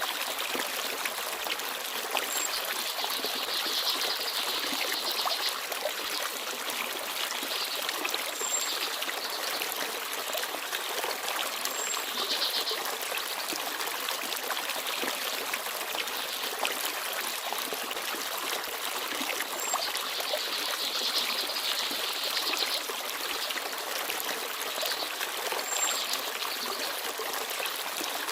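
Forest stream babbling and trickling steadily. A few brief, very high chirps come every few seconds, typical of small birds.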